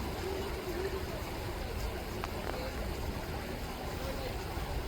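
Steady rush of river water rippling, with a low rumble underneath.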